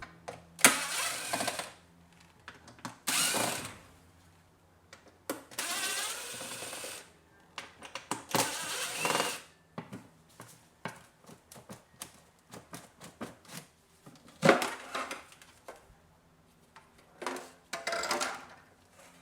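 Hands working on the engine's air intake filter housing: about seven short scraping or rustling bursts, each up to a second or so long, with scattered light clicks between them.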